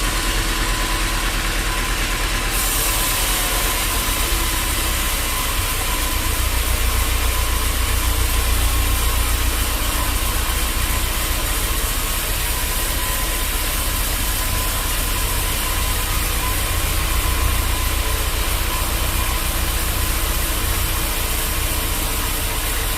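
Bandsaw sawmill machinery running steadily: a constant low motor drone under a wide hiss, with the high hiss getting stronger about two and a half seconds in.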